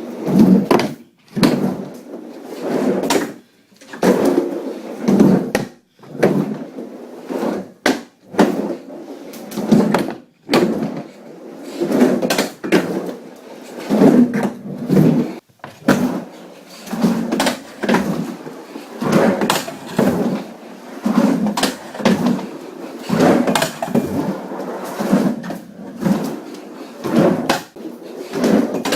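Skateboard on new wheels and bearings rolling back and forth on a ramp, the rolling rising and falling in repeated swells about once a second, with knocks in between.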